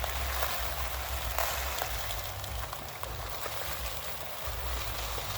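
Steady rain falling, an even hiss with scattered sharp drip ticks and a low rumble underneath.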